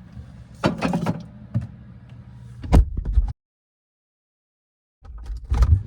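Refrigerator door and contents being handled: scattered knocks and clatters, then heavier thuds about three seconds in. The sound cuts out completely for about a second and a half, and a few more thumps follow near the end.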